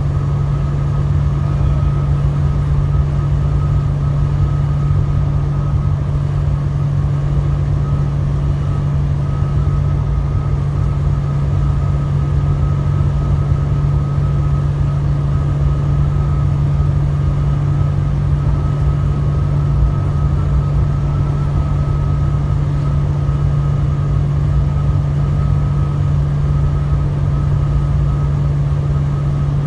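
Truck engine and road noise heard from inside the cab while driving: a steady, loud low drone that does not change.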